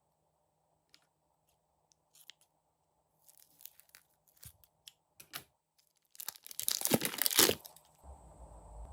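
A few light clicks and taps, then a loud crinkling, tearing sound lasting about a second and a half, near the end.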